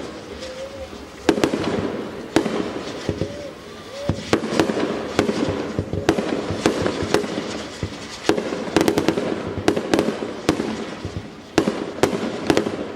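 Fireworks display: a rapid series of sharp bangs and cracks from bursting shells over continuous crackling, in clusters with heavier volleys around the middle and near the end.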